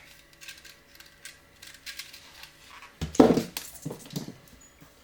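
Light clicks and ticks of thin 22 gauge gold wire and small pliers being handled on a worktable, then a louder metallic clatter and snip about three seconds in as wire cutters cut off a length of the wire.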